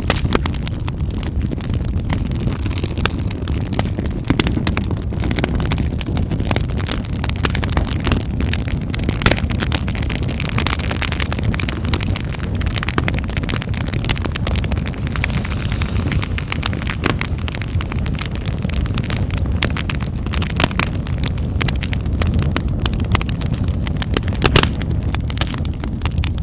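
Wood fire crackling in a fireplace: constant irregular snaps and pops over a steady low rumble of the flames, with a couple of louder pops along the way.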